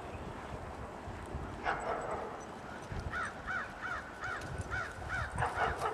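A bird calling: a harsh call about two seconds in, then a quick run of about seven short rising-and-falling calls, and another harsh call near the end.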